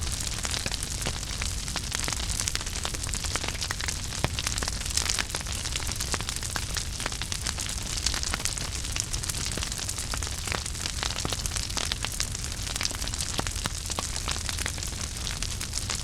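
Fireplace wood fire burning, a steady hiss and low rumble with frequent small crackles and pops scattered irregularly throughout.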